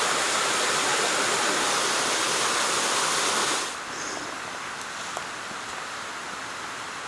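Steady rush of flowing water, which cuts off suddenly a little past halfway to a much quieter hiss.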